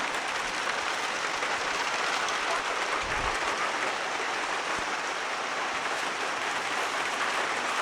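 Steady heavy rain falling, an even hiss of drops on surfaces.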